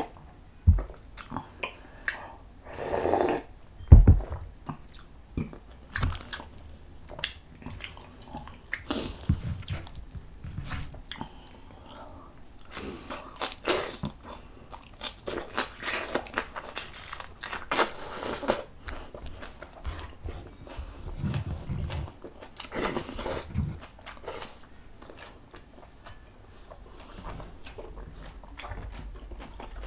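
Close-miked eating: wet chewing, biting and mouth smacking in irregular short clicks, with a few low thumps, the loudest about four seconds in.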